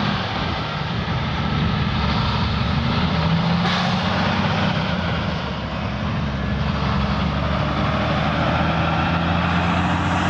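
Steady road noise heard from a bicycle riding along a highway, with a low hum and a broad rush of tyre and wind noise throughout.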